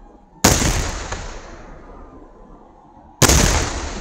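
Two very loud blasts of Kerala temple fireworks (vedikkettu) going off, about half a second in and again about three seconds in, each followed by a rumble that fades over a couple of seconds.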